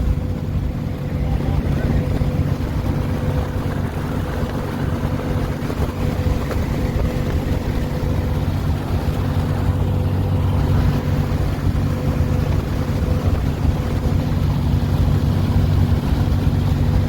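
Steady drone of a truck's engine and road noise heard inside the cab while it cruises at highway speed towing a loaded trailer, with a constant low hum and a faint whine above it.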